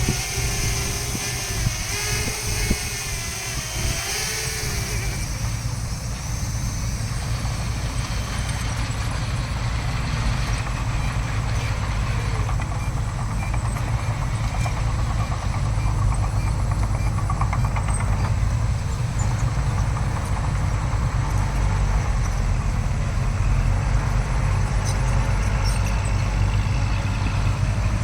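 Heavy diesel earthmoving machinery running steadily with a deep engine drone. A higher wavering whine sits over it for the first four seconds or so.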